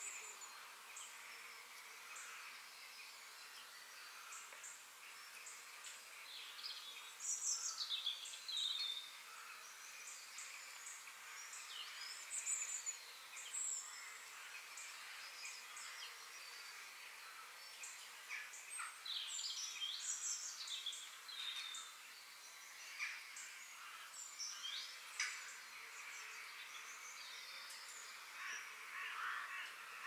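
Woodland birds chirping and singing: many short, high calls, some gliding down in pitch, come and go throughout over a faint steady background hiss.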